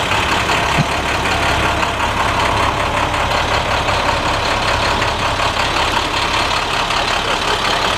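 2013 International 4300 truck's diesel engine idling steadily, with one brief tap about a second in.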